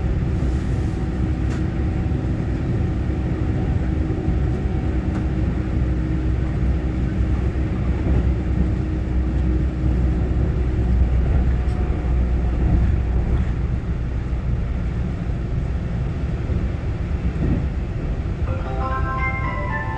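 Inside the cabin of a Taiwan Railway EMU900-series electric commuter train running between stations: a steady low rumble of wheels on rail with a faint motor hum. Near the end, a chime melody starts over the train's speakers.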